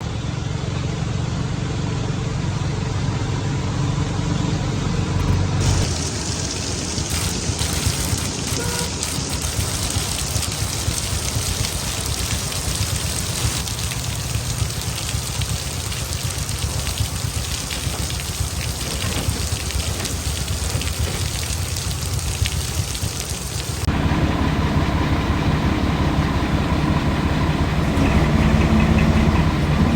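Heavy diesel machinery running steadily with a low engine rumble. About six seconds in the sound switches abruptly to a harsher, hissing mechanical noise, and near the end it changes back to the low engine rumble.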